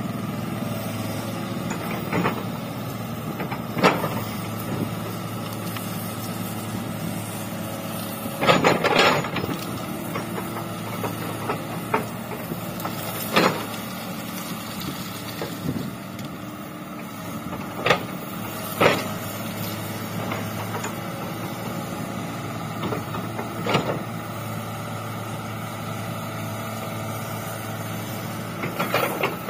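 Komatsu hydraulic excavator's diesel engine running steadily under work, with several sharp knocks and clanks scattered through, the loudest a cluster about nine seconds in and a pair around eighteen seconds.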